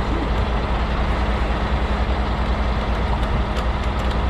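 Heavy truck diesel engine running steadily under load, with a deep low throb and a constant hum above it.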